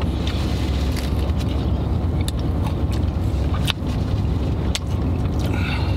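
Crisp crunching from chewing a burger with fried onion rings and crispy bacon: a handful of sharp, separate crunches over a steady low hum inside the car.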